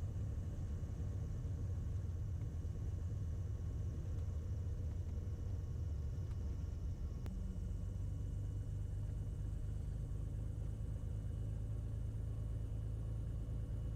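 Steady low drone of a light aircraft's engine heard inside the cockpit, with no radio traffic. About seven seconds in there is a faint click, and a slightly higher steady hum joins the drone.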